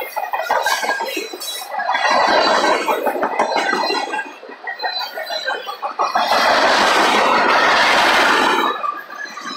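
Freight cars rolling past: steel wheels clattering on the rails with thin, high-pitched wheel squeals, the noise swelling loud twice for a second or two.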